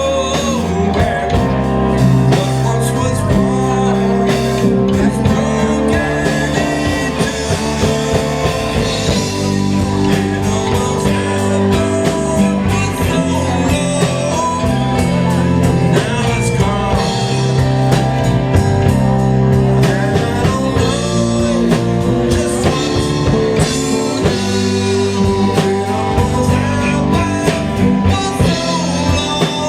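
A live band playing a blues number, with guitar and a singing voice over a steady full-band accompaniment.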